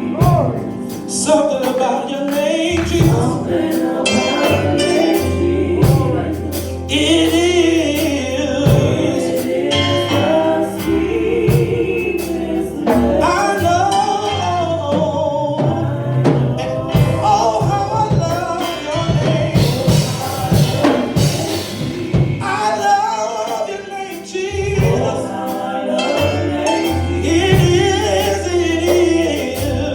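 Live gospel praise music: voices singing a slow worship song over a band, with steady bass notes and drum and percussion strokes.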